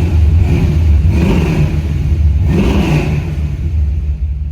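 Car engine and exhaust under way, a loud deep drone that swells twice as the revs rise.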